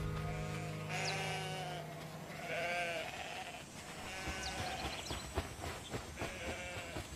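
Birds calling: a series of about five short, wavering pitched calls, with a few thin, high falling chirps between them. A low background music drone fades out in the first two seconds.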